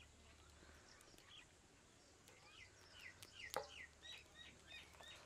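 Near-silent outdoor background with a small bird chirping faintly: a run of short, falling chirps, about three a second, from a little before halfway on. A single faint click about three and a half seconds in.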